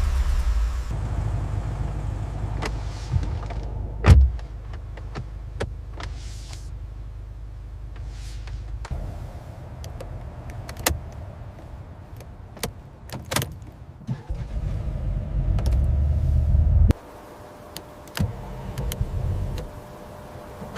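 Rolls-Royce engine running with a low rumble that swells and eases, falling away suddenly near the end. Sharp clicks and knocks from the car sound throughout, the loudest about four seconds in.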